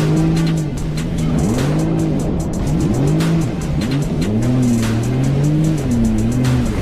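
A jet ski engine revving up and down again and again, over background music with a quick beat.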